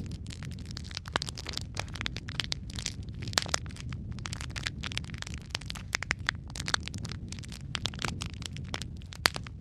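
Wood fire burning in a fireplace: logs crackling and popping irregularly, several sharp snaps a second over a steady low rumble of the flames.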